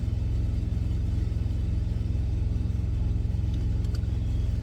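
Idling semi-truck diesel engine: a steady low rumble with a fast, even pulse.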